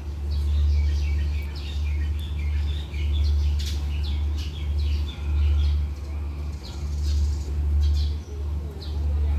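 Small birds chirping and twittering repeatedly, over a loud, steady low rumble that swells and dips every second or so.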